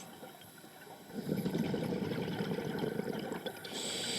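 A scuba diver breathing through a regulator underwater. From about a second in there is a low bubbling rush as an exhalation leaves the regulator, and near the end comes a higher hiss of an inhalation drawn through it.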